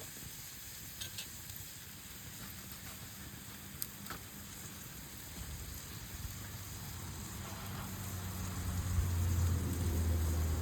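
Meat sizzling over a campfire, a steady hiss with a few sharp crackles. In the last few seconds a low droning hum builds up and becomes the loudest sound.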